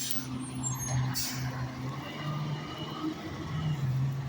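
Rear-loader garbage truck's engine running steadily, with short bursts of hiss at the start and about a second in.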